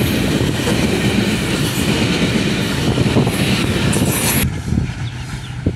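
Freight train of covered goods wagons rolling past at close range, a steady loud rush of wheel and rail noise with the wheels clattering over the rail joints. The noise drops sharply about four and a half seconds in.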